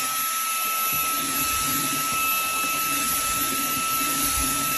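Shark WV201 WandVac handheld vacuum running steadily: a high, even motor whine over a rush of air.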